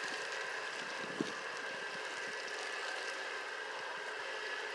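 Steady spray of water hitting a surface during a wash round, a constant hiss with a faint steady whine under it.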